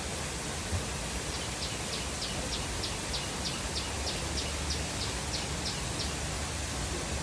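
Steady rush of a waterfall. Over it, a bird calls a run of about fifteen short, high, falling notes, roughly three a second, which stops about a second before the end.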